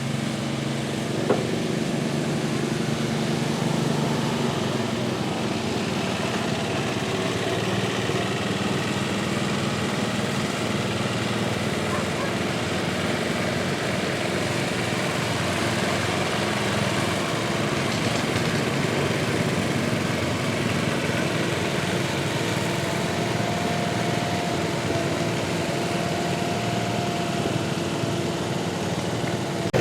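Small garden tractor engine running steadily at high revs under load as it pulls a weight sled.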